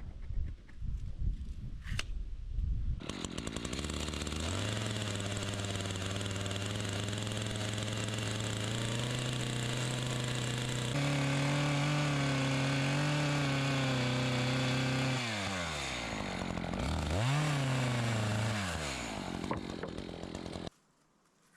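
Gas chainsaw starting about three seconds in and running steadily, then speeding up; its speed drops and climbs twice before it cuts off suddenly near the end.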